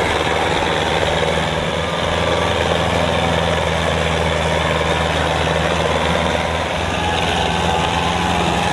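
Tractor engine running loudly and steadily at a constant speed.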